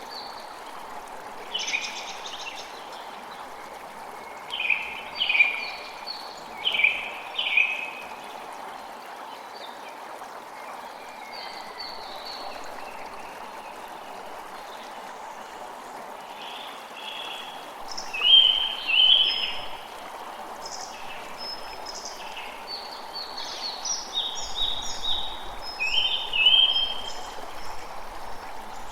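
Steady rush of flowing water, with birds chirping in short bursts over it, most often near the end.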